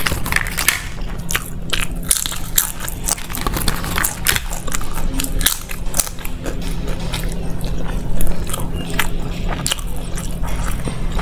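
Close-miked eating: chewing and biting of flaky lachcha paratha, with many irregular crisp crackles as the layered flatbread is torn by hand and chewed. A steady low hum runs underneath.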